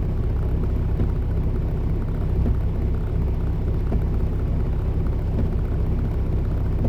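Steady drone of a semi-truck's diesel engine and road noise heard inside the cab while cruising.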